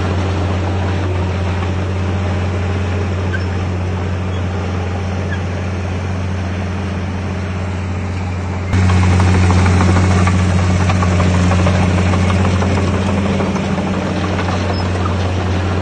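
Heavy construction machine's diesel engine running steadily with a deep, even drone, getting suddenly louder a little past halfway.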